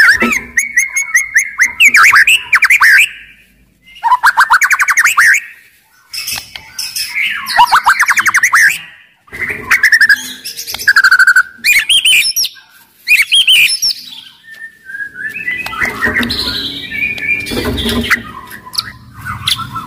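White-rumped shama singing loudly: bursts of varied whistled phrases and fast rattling trills, each a second or two long with short gaps between. Near the end a low noise sits under the song.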